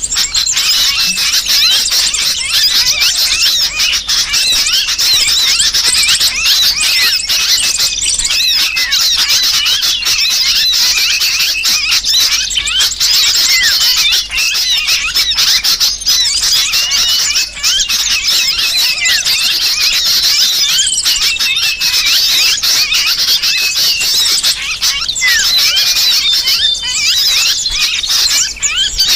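Bird-lure recording: a dense, continuous chorus of small birds chirping and squealing, mixing the distress calls of a trapped sooty-headed bulbul with the noisy chatter of small songbirds, used to draw wild birds in.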